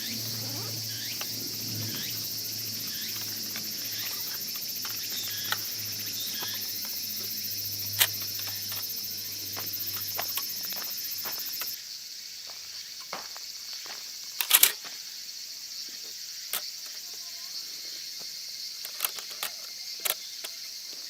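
Steady high-pitched chorus of insects chirping, with scattered sharp clicks and knocks, a quick cluster of louder knocks about two thirds of the way in.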